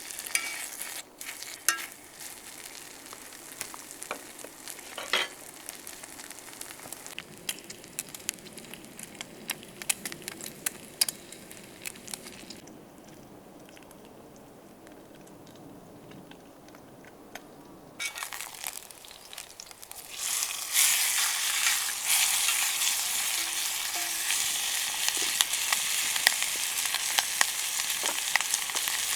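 Food sizzling and frying in a pan over a campfire, with scattered crackles and pops. The sizzle dies down for a few seconds in the middle, then comes back much louder and denser about twenty seconds in.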